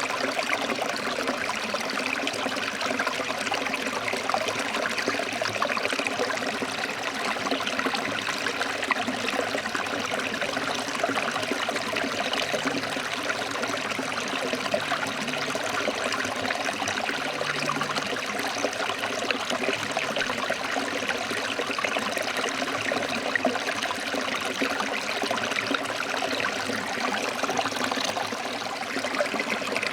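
Forest stream flowing over rocks: a steady rush of running water with fine splashing.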